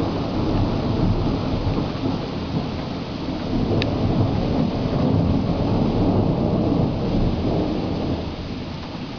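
Low rumbling thunder over steady rain. The rumble eases off near the end.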